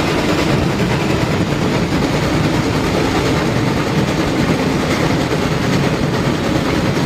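A train running on rails: a steady, loud rumble with rapid clacking. It is a sound effect that starts and stops abruptly, laid over the footage of a toy locomotive.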